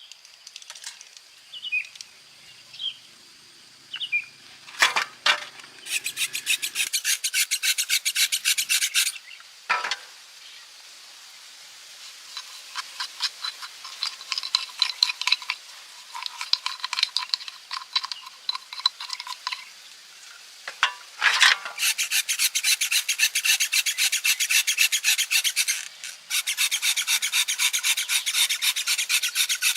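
Rapid back-and-forth rasping strokes, like hand scrubbing or filing a part, in runs of several seconds with short breaks. A few light knocks come before the first run.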